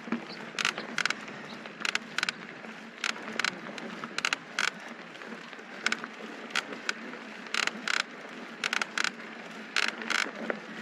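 Mountain bike rolling over a rough dirt trail: a steady tyre and wind hiss with sharp, irregular clicks and rattles from the bike over bumps, about two a second.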